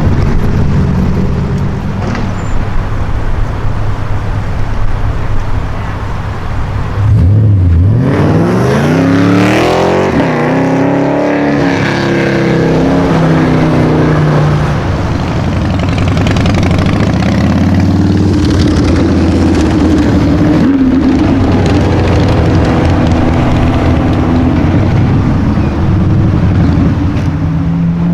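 Sports car engine running low, then accelerating hard about seven seconds in, its pitch climbing steeply, and carrying on with further, gentler rises in revs.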